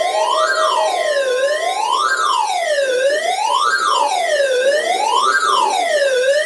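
Electronic siren wailing, its pitch rising and falling smoothly about once every one and a half seconds. A steady lower tone sounds under it for the first second or two.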